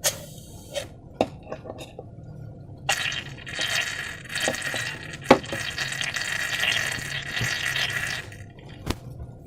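A few sharp clicks and taps, then liquid pouring steadily into a container for about five seconds before stopping.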